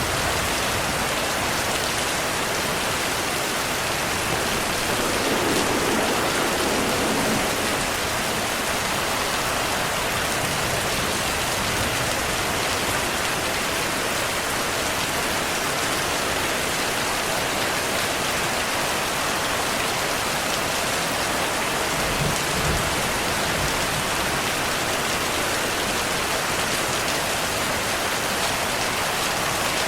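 Heavy rain falling steadily in a dense, even hiss. Twice there is a faint low rumble under it, a swell about a fifth of the way in and short pulses about three quarters of the way through, like distant thunder.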